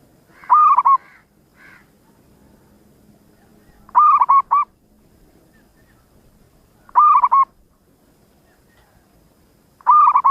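Zebra dove (perkutut) cooing: four short phrases of quick, rippling coo notes, spaced about three seconds apart.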